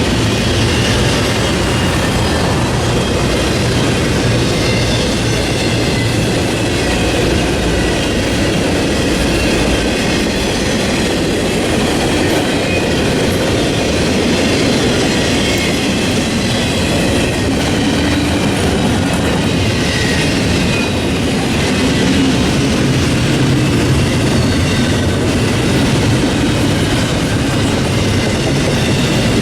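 Freight train cars rolling past at a steady pace, wheels clacking over the rail joints with thin high wheel squeals.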